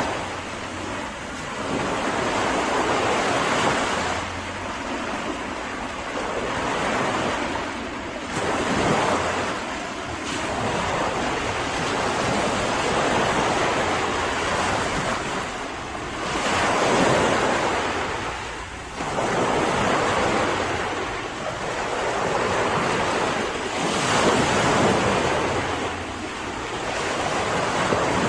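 Mediterranean sea waves breaking and washing on a beach, the surf swelling and fading about every four seconds.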